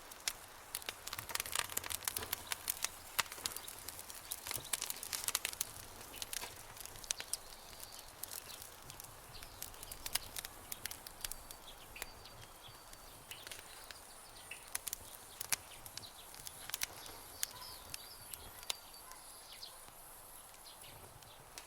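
Campfire crackling, sharp pops and snaps coming thick and fast for the first six seconds or so, then more thinly. Faint high chirps come through in the second half.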